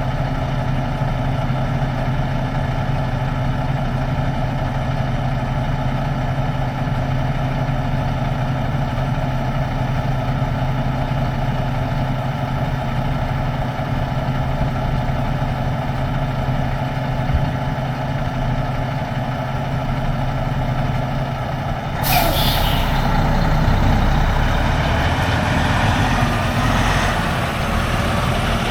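Semi-truck diesel engine running steadily. About three quarters of the way in comes a sudden sharp hiss of released air, after which the engine and road noise grow louder.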